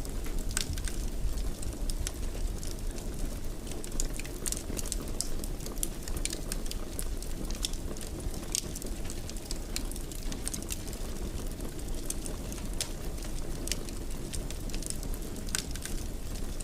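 Wood fire crackling in a fireplace: frequent small sharp pops and snaps at irregular intervals over a steady low rumble of the flames.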